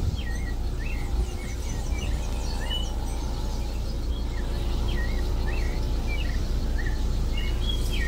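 A bird singing a run of short chirping notes, about two a second, with fainter higher chirps from another bird and a steady low rumble underneath.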